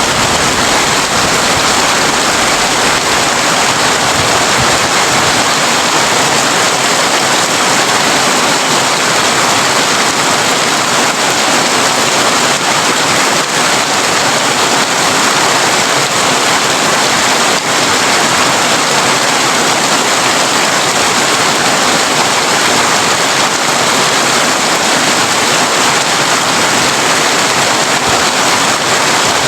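Heavy rain falling steadily on a corrugated tin roof, a dense unbroken hiss, with the tail of a low thunder rumble dying away at the start.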